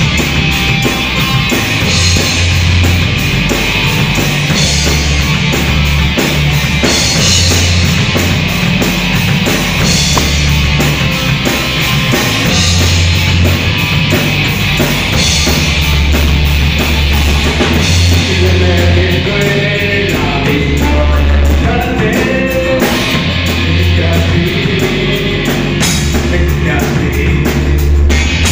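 Rock band playing live: distorted electric guitars, bass and drums in a heavy, punk-like rock song, with a singer's voice coming in over the band in the later part.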